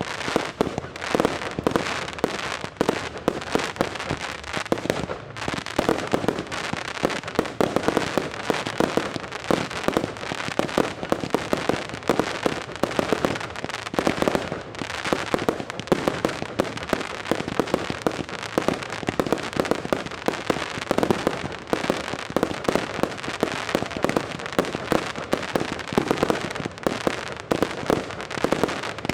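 Professional aerial fireworks display: a dense, unbroken stream of launches and bursts, many sharp bangs a second mixed with crackling, with no pause.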